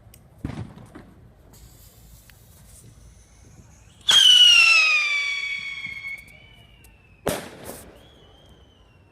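Fireworks: a small bang about half a second in, then a loud shrill firework whistle that slides down in pitch over about two seconds, followed by two sharp bangs close together near the end.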